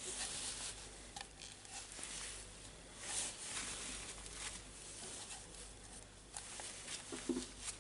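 Scratchy rubbing and rustling in irregular strokes, with a few light clicks and a small knock near the end, typical of hands cleaning and handling rotary hammer drill parts on a workbench.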